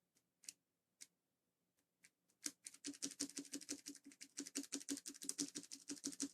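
Light plastic clicks from mechanical keyboard keycaps: a few single clicks, then a fast, even run of about seven clicks a second starting about two and a half seconds in.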